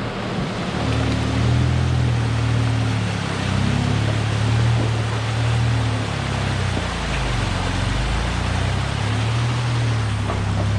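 Off-road truck engine running at low revs while crawling, its pitch rising and falling slowly, over a steady hiss.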